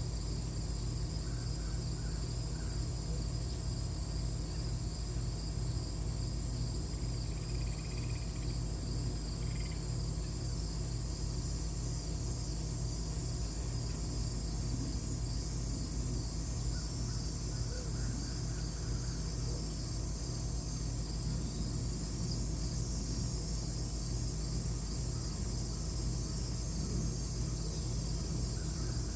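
Steady high-pitched drone of insects, unbroken throughout, over a constant low hum, with a few faint bird chirps now and then.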